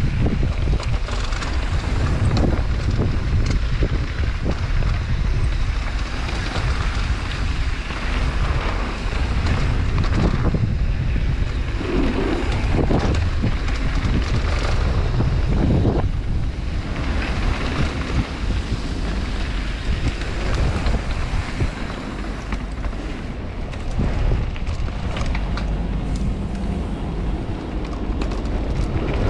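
Wind buffeting the microphone of a rider-mounted camera during a fast mountain bike descent, a steady low rush with scattered knocks and rattles from the bike over the trail.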